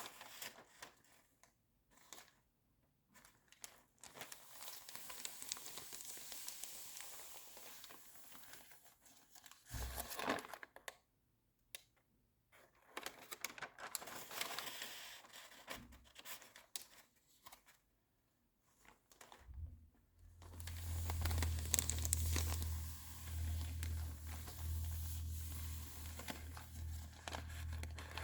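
Glossy magazine pages being turned and handled: papery rustling and crinkling in bursts with short silences between them. About two-thirds of the way in, a steady low hum starts under rustling that then runs on without a break.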